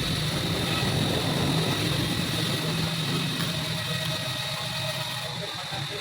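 A machine running steadily, with a low hum under an even hiss.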